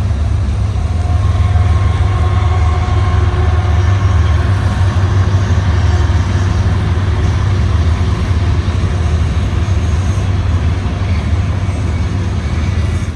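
Steady, loud, low rumble of a moving vehicle: engine and road noise.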